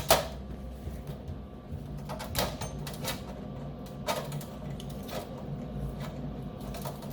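Scattered light clicks and metallic taps over a steady low hum, from welding gear and steel being handled.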